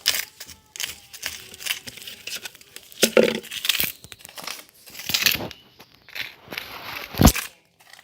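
Objects being handled: irregular crinkling and rustling with light clinks, and a sharp knock a little after seven seconds in.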